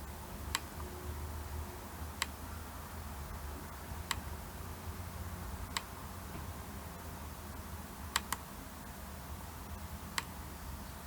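Seven short, sharp button clicks a second or two apart, two of them in quick succession about eight seconds in: the model-select buttons of an LCD/touch-screen tester being pressed to step through phone models. A steady low hum runs underneath.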